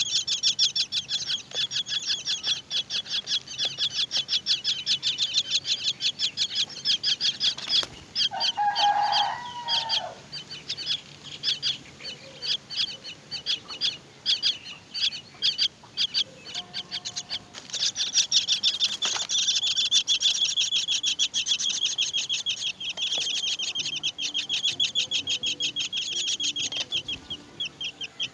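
Myna nestlings begging: a fast, continuous run of high chirps, many a second, that thins out in the middle and picks up again strongly later. A lower, longer call stands out about eight seconds in.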